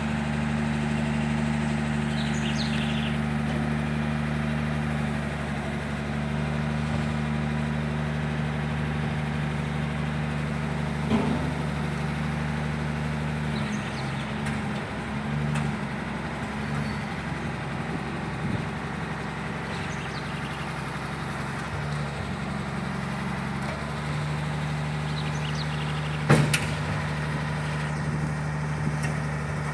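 A machine motor running with a steady low hum. Its pitch drops about halfway through and comes back up near the end, with a light knock early on and a sharper knock near the end.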